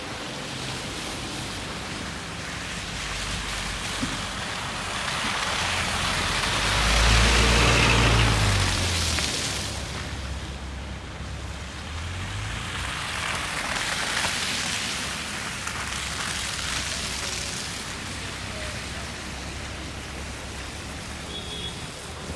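Vehicles passing on a snow-covered street, tyres hissing through the snow. The first pass, about seven to nine seconds in, is the loudest and carries a deep engine rumble; a second, softer pass swells and fades around fourteen seconds in.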